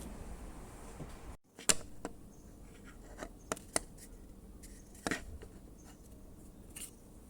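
Scattered sharp clicks and light taps at irregular intervals, like small hard objects being handled, with the background cutting out abruptly for a moment about a second and a half in.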